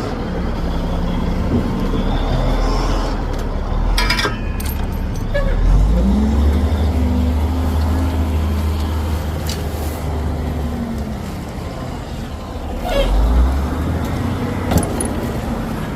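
Heavy vehicle's diesel engine running, revving up about six seconds in and holding higher for several seconds before settling back. A few sharp knocks sound about four seconds in and near the end.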